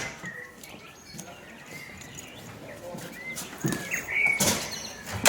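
Birds chirping: short, scattered calls, with faint voices behind them.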